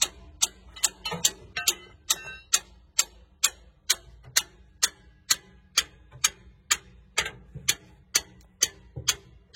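Steady, even ticking, a little over two sharp ticks a second.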